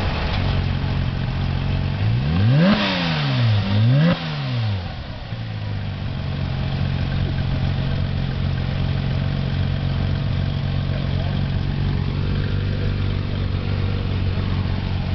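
Porsche 997 GT3's flat-six engine idling, with two quick throttle blips a few seconds in, about a second apart. Each rev shoots up and drops straight back to a steady idle.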